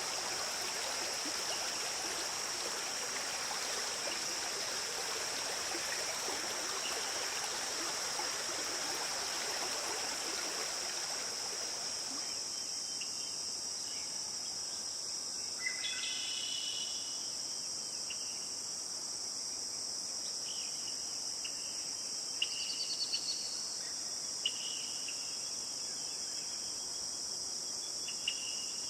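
A running stream's hiss that cuts off about twelve seconds in, under a steady high-pitched chorus of insects, crickets, that continues throughout. In the second half, scattered short bird chirps and a quick trill sound over the insects.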